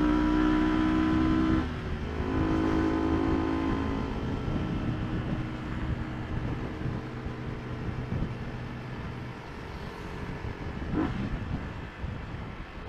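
Yamaha R15 v2's single-cylinder four-stroke engine running at steady revs while riding, with wind and road noise. About a second and a half in the throttle closes and the engine note falls away gradually over several seconds, with a short rev-up near the end.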